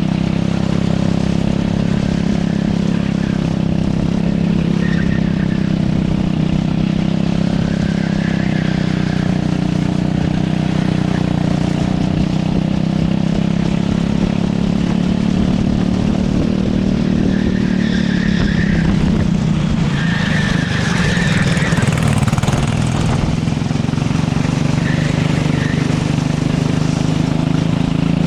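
Racing kart engine running hard, its pitch falling as the kart slows about two-thirds of the way through and then climbing again. Short tyre squeals come several times, most strongly while it slows and turns.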